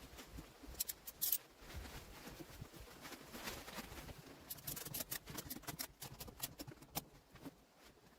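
Faint, irregular clicks and light taps, with a sharper pair about a second in and a quicker run of small ticks in the second half.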